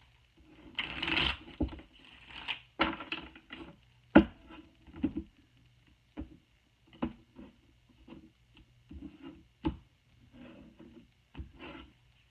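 Tarot cards being shuffled and laid down by hand: short rustling riffles and irregular sharp taps and slaps of cards, the loudest about four seconds in.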